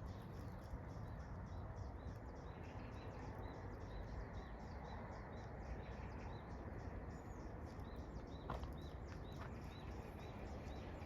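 A high, short chirping call repeated steadily at about two a second, starting a few seconds in, over a low rumble of wind and outdoor noise.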